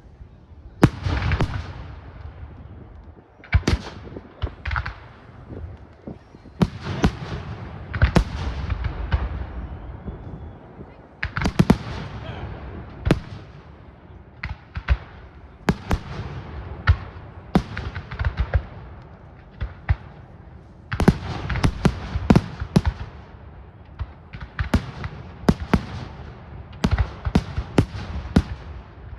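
Firework display: a run of sharp bangs and crackling bursts, often several close together, with short lulls between volleys.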